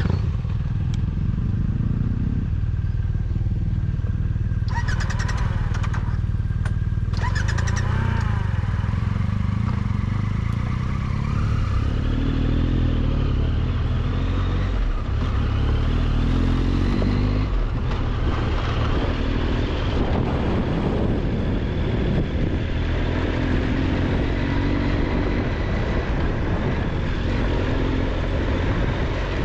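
Triumph Tiger 1200 XCX adventure motorcycle riding along a rough dirt road: its engine running steadily under wind and road noise, with a few brief clattering sounds about five to seven seconds in.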